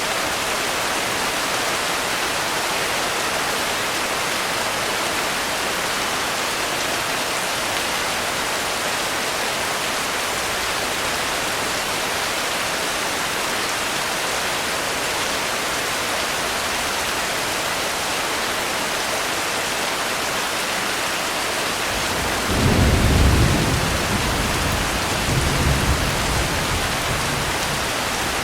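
Steady heavy rain, with a rumble of thunder rolling in near the end that swells twice before fading.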